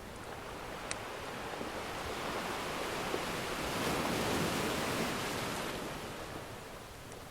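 Ocean surf: a wave swells in, peaks about midway and washes back out. A sharp crackle from a wood fire comes about a second in, with a fainter one near the end.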